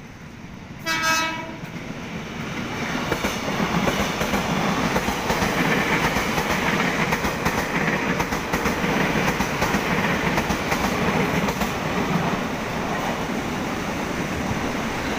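Electric commuter train (KRL) gives one short horn blast about a second in, then runs close past, a loud steady rush of wheels on rail with quick clacking over the rail joints, easing off slightly near the end.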